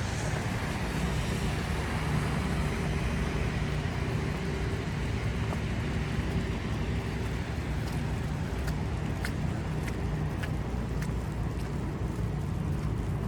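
City street traffic: a steady low rumble of passing cars, with a faint steady hum. A few light, sharp ticks come about two-thirds of the way through.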